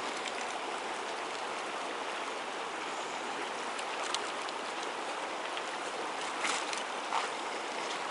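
Steady rush of the Snake River's flowing water, with a few faint ticks about four seconds in and again near the end.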